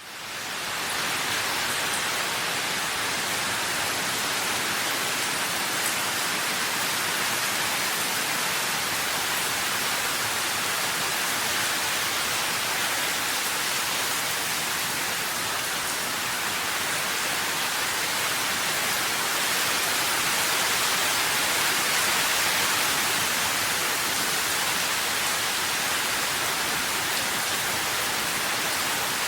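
Steady rain falling, an even hiss of many drops with no separate patters standing out, fading in over the first second.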